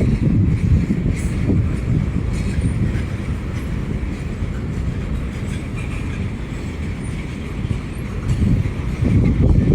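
CSX freight train rolling slowly past as it slows down: a steady low rumble of cars on the rails, with faint clicks and a light metallic ring, swelling again near the end.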